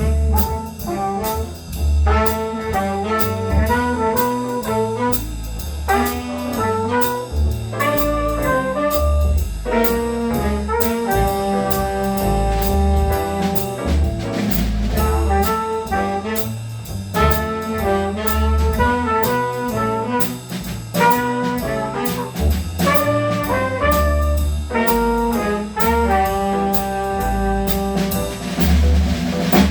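Jazz band playing, with a brass section of trumpets and trombones carrying the chords over bass notes and drums with steady cymbal strokes.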